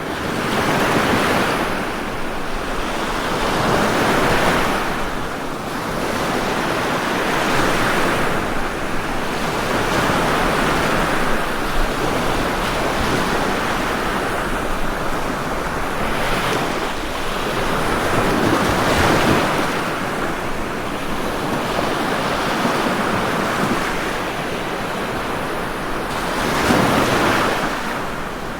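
Ocean waves breaking and washing in continuously, the surf swelling and easing every few seconds, with some wind.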